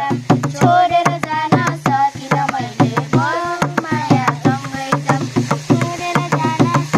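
Nepali folk song: a voice singing over quick, steady madal drum strokes.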